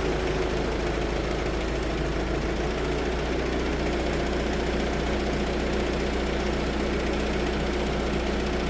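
Holder C70 compact tractor's engine idling steadily, freshly started.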